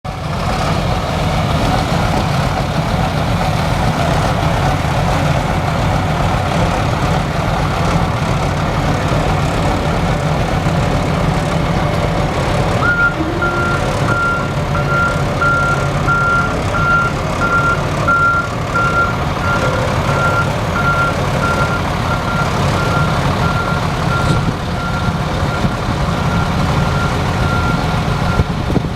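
1996 GMC TopKick tilt-deck truck's engine running steadily. About halfway through, its back-up alarm starts a long run of evenly spaced, high beeps that goes on until near the end, as the truck is put in reverse.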